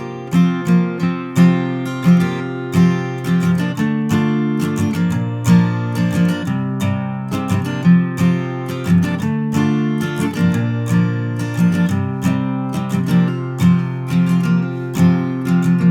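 Acoustic guitar strumming chords in a steady rhythm, an instrumental break in a country-folk song, changing chord every couple of seconds.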